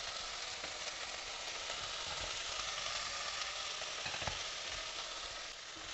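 Fiddlehead ferns sizzling steadily as they stir-fry in a pan, with a couple of light knocks.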